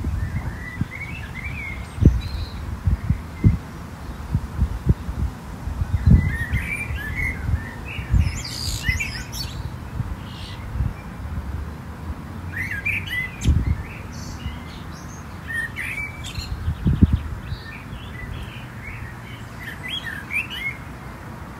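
Small birds chirping in scattered bursts, with irregular low thumps underneath.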